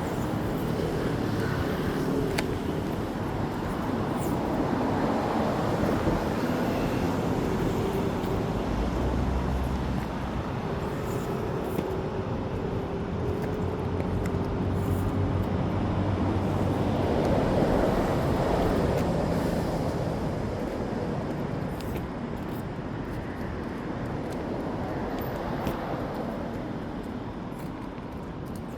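Road traffic passing on a city street: a steady wash of engine and tyre noise that swells as vehicles go by, loudest about seventeen seconds in.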